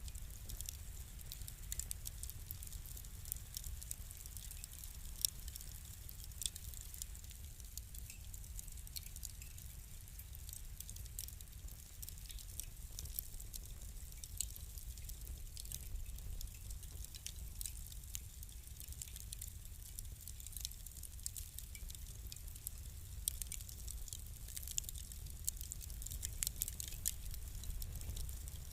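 Fire crackling: scattered sharp pops and ticks, a few a second, over a low steady rumble.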